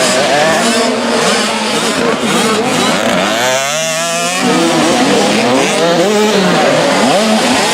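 Several 65cc two-stroke motocross bikes racing, their engines revving up and down over one another. About three and a half seconds in, one bike close by drops in pitch and then climbs again.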